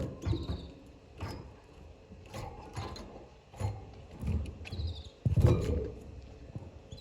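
Canary in its cage giving two brief high chirps, the first near the start and the second about five seconds in, among scattered knocks and rattles. The loudest is a low thump just after five seconds.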